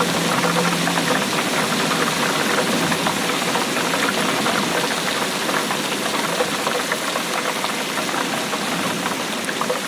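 Steady heavy rainfall: a dense, even patter of countless drops.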